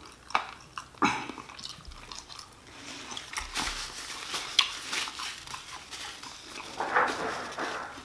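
Chewing a bite of fried chicken wing, with sharp crunches and wet mouth sounds. A paper napkin rustles for a few seconds, starting about three seconds in, as it is rubbed over the hands and mouth.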